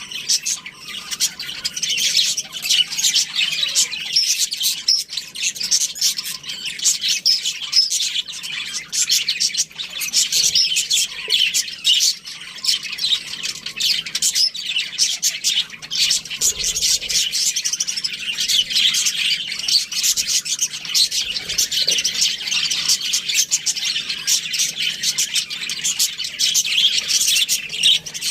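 A flock of budgerigars chirping and warbling continuously, many small calls overlapping, with scattered short clicks among them.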